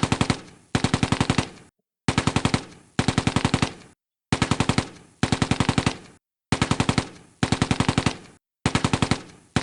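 Machine-gun fire sound effect: about nine short bursts of rapid shots, roughly ten shots a second, with brief silences between the bursts.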